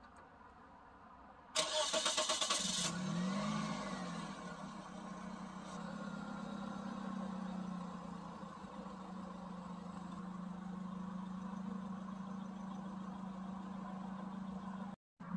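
A car engine starting: the starter cranks briefly, the engine catches and revs up and back down, then settles into a steady idle.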